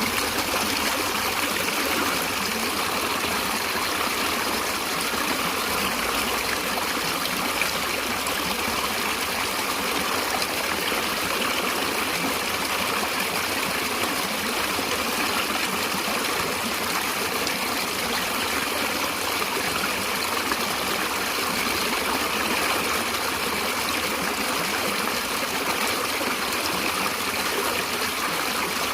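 Stream of water running and trickling steadily over its bed, with an even rush and no change in level.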